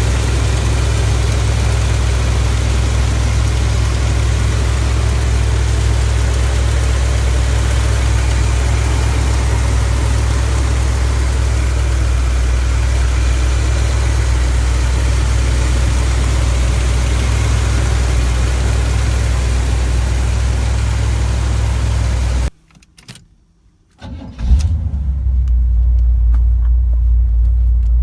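1972 Chevrolet Corvette's V8 idling steadily with a deep, even rumble. It cuts off abruptly near the end, falls silent for about a second and a half, then starts again and settles back into idle.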